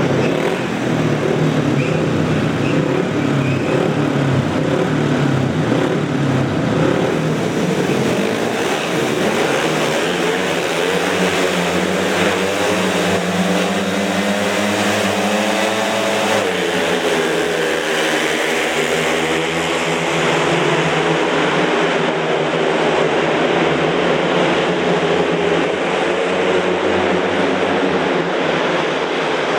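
Several speedway motorcycles racing, their single-cylinder engines revving hard and overlapping, with the pitch dipping and climbing again about halfway through as the throttles come off and back on.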